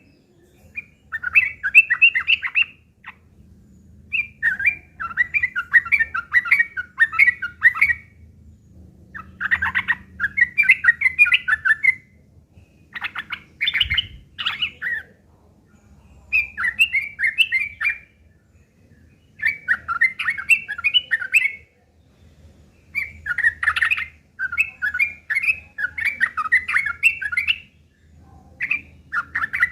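Yellow-vented bulbul (trucuk) singing in a harsh, fast chattering style (ngeriwik kasar, the fighting call): rapid bubbly phrases of two to three seconds, repeated over and over with short pauses between them.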